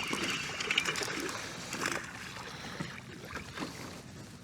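Water splashing and sloshing at the side of a fishing kayak, with a few light knocks and clicks, as a hooked fish is brought in.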